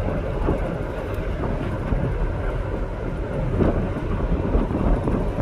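Steady low rumbling noise of a ferry under way, with no clear beat or tone.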